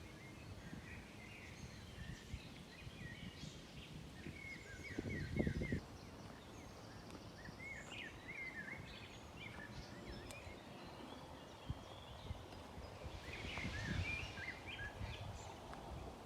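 Small songbirds chirping and trilling, with two brief low rumbles, one about five seconds in and one near the end.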